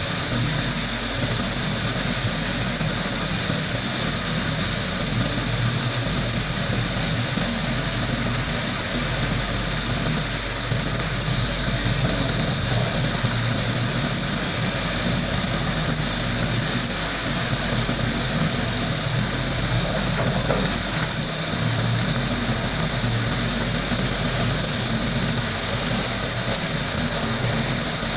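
Sandblaster blasting abrasive with compressed air: a steady, unbroken hiss over a low hum.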